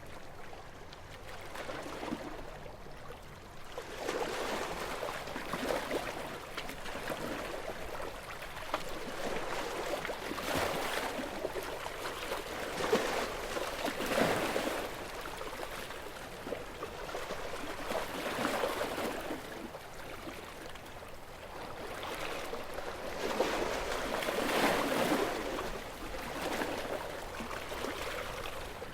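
Gentle sea waves washing in and breaking on the shore, swelling and ebbing every few seconds with a fizzing crackle at each surge. The largest surges come around the middle and late on.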